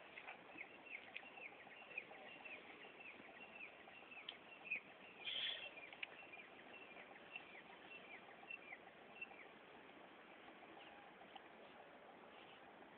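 A small bird chirping over and over, faint, about three short high chirps a second that each slide downward, stopping about nine seconds in. A brief louder sound comes a little past the midpoint.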